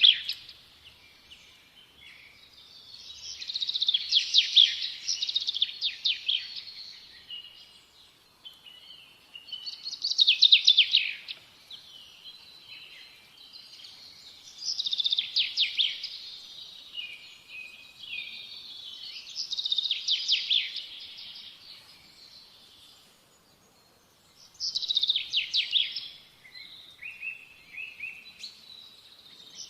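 A songbird singing repeated trilled phrases, each about two to three seconds long, roughly every five seconds.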